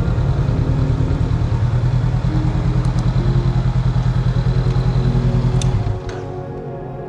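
Motorbike engine running, with a rapid even exhaust pulse that drops off sharply about six seconds in. Background music plays underneath.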